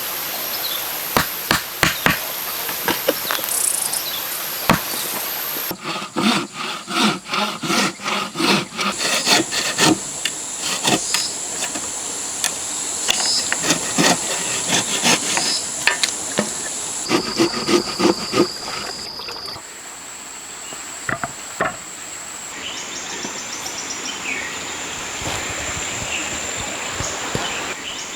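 Irregular knocks and taps of hand woodworking on timber, with a quick run of strikes in the middle. A steady high-pitched insect drone runs underneath.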